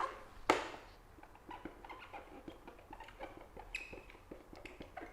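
Faint scratching and light ticking of a pen writing, with a short sharper sound about half a second in.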